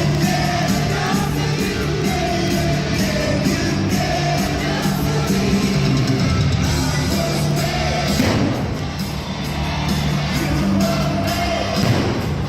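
Live rock band playing with a singer, heard from within the audience in a large hall, with crowd yells.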